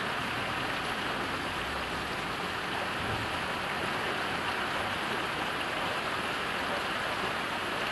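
Heavy rain falling steadily, a dense, even patter and hiss of rain on the ground and surfaces.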